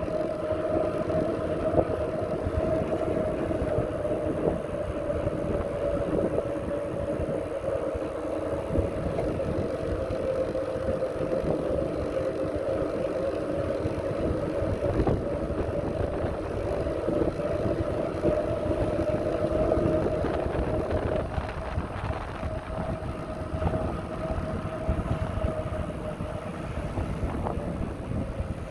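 Riding noise from a bicycle moving along a path: steady wind and road rumble on the microphone. Over it runs a steady whine that drifts slightly in pitch and drops out about three-quarters of the way through, with a fainter high tone near the end.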